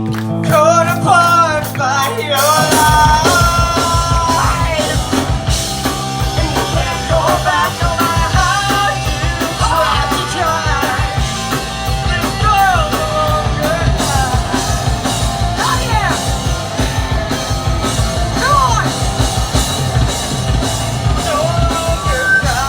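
Live rock band playing with a lead vocalist singing; the full band with drums comes in about two and a half seconds in, after a stretch of singing over guitar.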